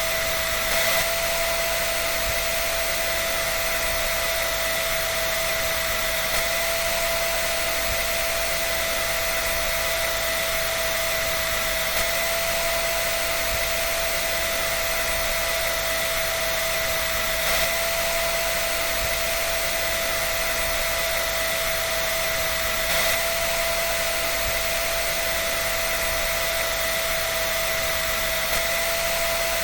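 Hair dryer running steadily: an even rush of air with a constant high whine from the motor, and a slight swell in loudness about every five and a half seconds.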